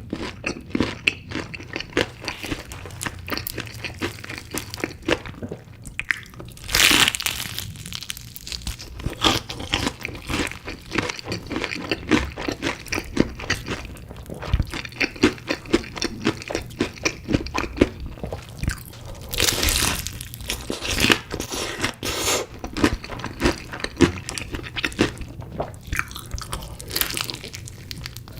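Close-miked eating: crisp chicken pieces crunched and chewed in a run of wet, crackly bites, with two longer, louder crunches about a quarter and about two-thirds of the way through.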